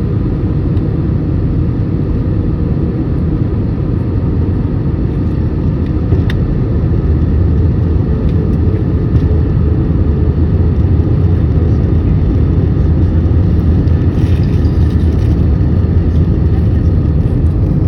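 Steady low rumble of airliner cabin noise, engines and rushing air, heard from a window seat, growing a little louder partway through. A short click sounds about six seconds in.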